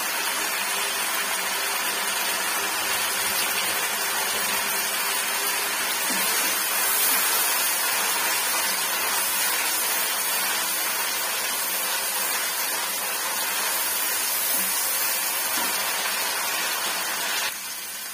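Ground tomato and garlic sizzling as they fry in oil in a non-stick kadai, stirred partway through with a wooden spatula. The sizzle is steady and drops suddenly quieter near the end.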